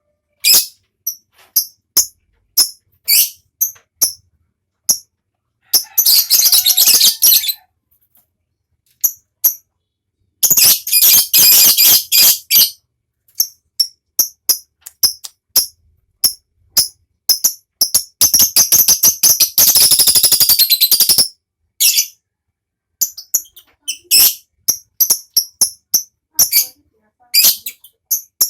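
Lovebird giving short, sharp, high-pitched chirps, broken by three long, rapid, rattling 'ngekek' trills: one about 6 seconds in, one about 11 seconds in, and the longest, about three seconds, near 18 to 21 seconds.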